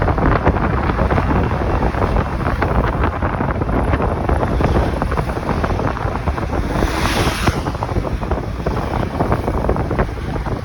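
Wind buffeting the microphone of a camera on a moving motorcycle, a loud, fluttering rumble with road and engine noise mixed beneath it. A brief hiss swells about seven seconds in.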